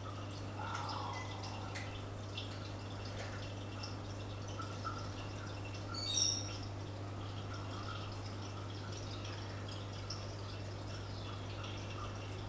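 Aquarium water dripping and trickling over a steady low hum, the sound of the tank's filter and pump running. About six seconds in there is a brief, louder high-pitched sound.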